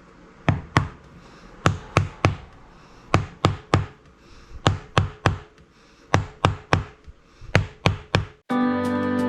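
Sharp knocks struck in quick groups of three, about a second and a half apart, typical of tapping or hammering during hand fabrication. About eight and a half seconds in they cut off and background music begins.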